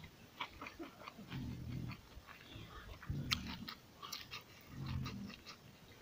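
A person chewing a mouthful of rice and pork with wet, smacking clicks of lips and tongue. Four low, drawn-out sounds of about half a second each come between the chews and are the loudest part.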